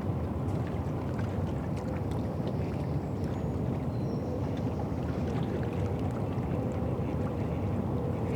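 Steady low drone of a boat engine on the river, with a faint wavering hum and scattered light ticks over it.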